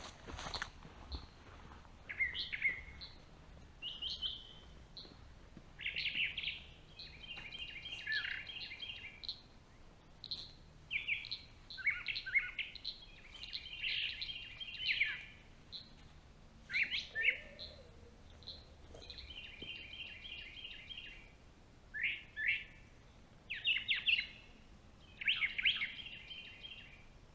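Songbirds singing and calling: short chirps and rapid trills come one after another in short bursts with brief gaps between them.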